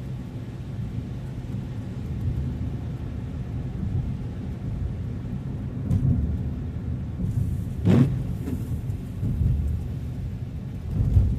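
Car driving, with a steady low rumble of road and engine noise. There is a single sharp thump about eight seconds in.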